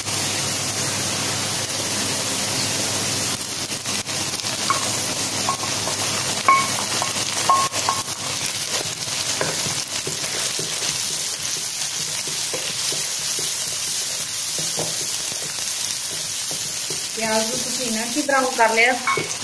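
Sliced onions frying in oil in a kadai: a steady sizzling hiss, stirred with a wooden spatula as chopped tomatoes are mixed in.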